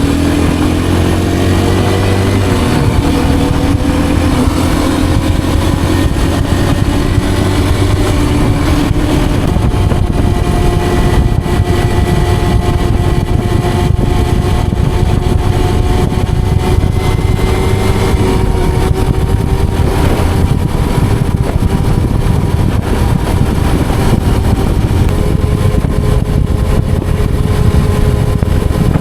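Kawasaki KLX230R dirt bike's single-cylinder four-stroke engine pulling at speed, its pitch climbing slowly over the first several seconds and then holding nearly steady, over a heavy low rumble of wind on the microphone.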